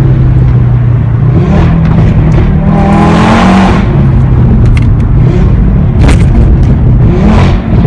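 Audi RS3 8V's decatted five-cylinder engine and exhaust under hard acceleration, the revs climbing about two seconds in and again near the end, with sharp pops and crackles from the exhaust in the second half.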